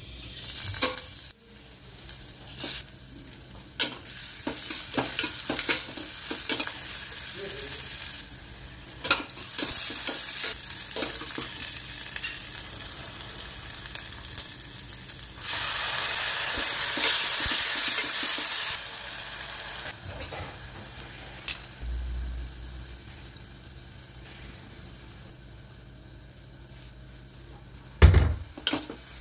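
Chopped ginger and onion frying in hot oil in a steel pressure cooker, sizzling, while a steel spatula scrapes and clinks against the pot as it is stirred. The sizzle grows louder for about three seconds midway, and a few sharp knocks come near the end.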